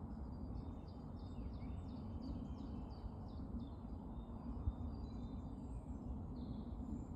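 A songbird singing a quick run of about a dozen short, high, downward-sliding notes for about three seconds, with other faint calls of the woodland dawn chorus, over a steady low background rumble.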